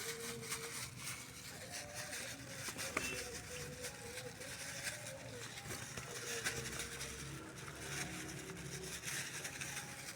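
Pigeons feeding on grain: many light, irregular pecking ticks, with faint low cooing.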